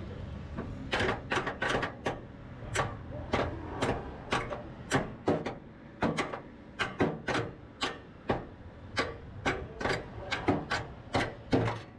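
Hammer tapping on a sheet-metal panel, about two to three sharp knocks a second at an uneven pace, starting about a second in. The blows are trying to knock loose a cut-out piece of the car's radiator core support that may still be held by a spot weld.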